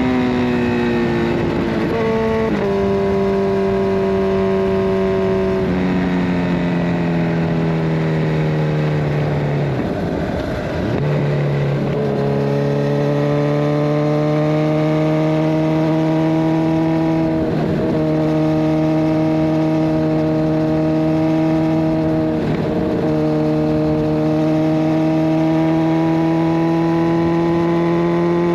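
Kawasaki Ninja 1000SX's inline-four, with the catalytic converter removed and a Scorpion Red Power exhaust, running while being ridden. The engine note drops in several steps over the first ten seconds and dips briefly, then climbs slowly and steadily, broken twice by short interruptions.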